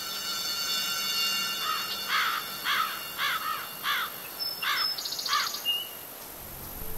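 A bird calling a short repeated note about twice a second, with a brief high whistle and a buzzy trill near the end. A steady high-pitched ringing underneath fades away in the first half.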